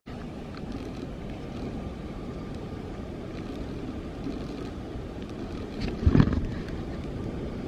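Wind buffeting the microphone, a steady low rumble with a louder gust about six seconds in.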